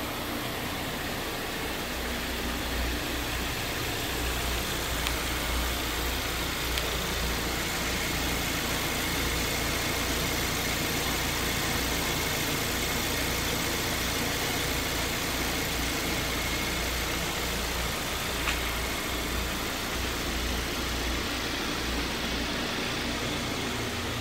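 Hyundai Veloster's 1.6-litre turbocharged GDI four-cylinder engine idling steadily.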